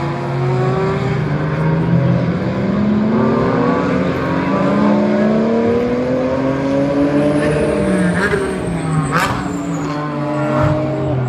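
Several GT race car engines at high revs, their pitch climbing as they accelerate, overlapping one another. A few sharp cracks come in the last few seconds.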